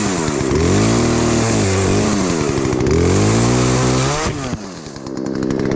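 Gas chainsaw cutting into a log, its engine note sagging and recovering several times as the chain bogs under load. About four seconds in the pitch falls sharply, then the saw runs steadily again.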